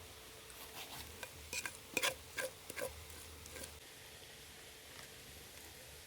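A run of light clinks and knocks of a utensil against a metal pot or dish, bunched over about three seconds, with the loudest clinks about two seconds in.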